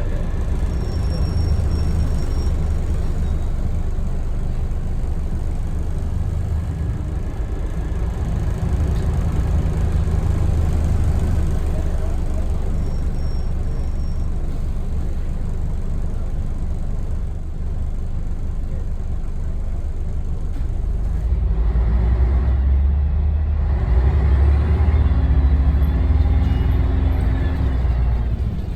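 Scania L113TRB bus's 11-litre six-cylinder diesel engine running with a steady low rumble. It gets louder from about 21 s in, with pitch rising and falling as it pulls.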